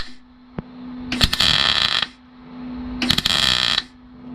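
MIG welder laying short bursts of weld on a classic car's steel body panel: two bursts of arc noise under a second each, about two seconds apart, with a steady hum from the welder between them. The welder is running properly again, its wire spool reel freshly greased after it had stuck and screeched.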